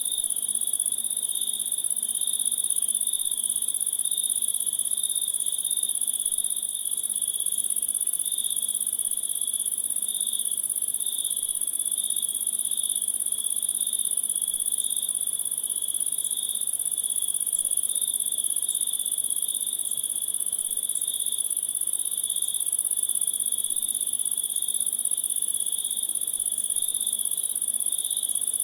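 Steady insect chorus chirring at two high pitches, the lower one with a fine, rapid pulsing, unchanging throughout.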